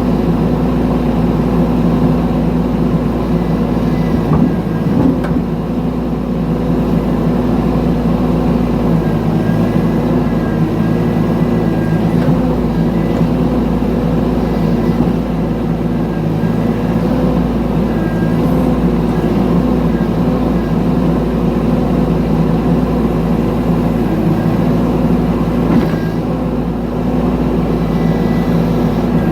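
Mini excavator's diesel engine running steadily while digging, with a couple of short knocks about five seconds in and again near the end.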